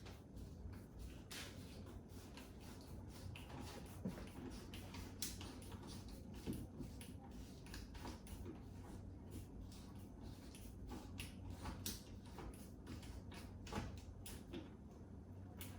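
Hand ratchet driving a screw into a wall, giving scattered sharp clicks and small knocks at irregular intervals.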